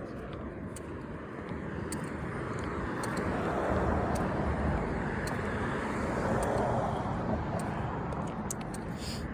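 A car passing on the road, its tyre and engine noise swelling to a peak midway and then fading as it goes by.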